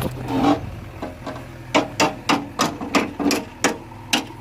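Steel being hammered: a run of sharp, ringing metal strikes, about three a second from near the middle on, with a few looser knocks before. A diesel engine runs steadily underneath.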